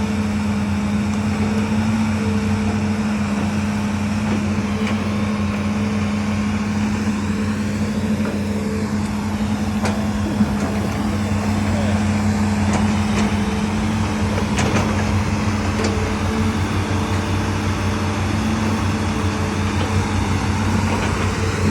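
A heavy engine running steadily at a constant speed, a continuous low hum that does not rise or fall, with a few faint clicks and knocks scattered through it.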